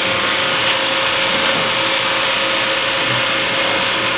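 Hydraulic power unit of a field chain riveter running steadily, a constant mechanical hum with a steady whine.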